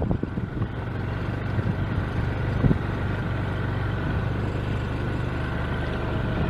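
A vehicle engine running steadily: a low, even hum.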